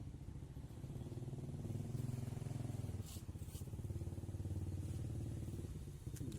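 A small engine idling steadily, with a fast even pulse and a brief dip in level about halfway through; a few faint clicks sound over it.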